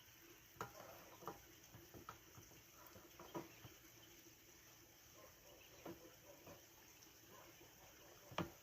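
Faint, scattered light clicks and taps, about half a dozen, the loudest near the end, over a quiet background.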